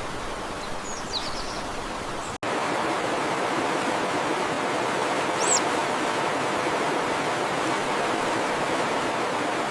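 Steady rushing of flowing water, with a couple of brief high bird chirps. The sound cuts out for an instant about two and a half seconds in and comes back louder.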